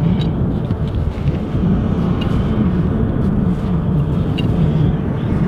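Strong blizzard wind buffeting the microphone: a loud, steady low rumble with a low tone that wavers up and down.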